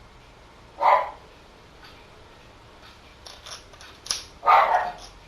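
Dog-like barking: one short bark about a second in, then a louder pair of barks near the end.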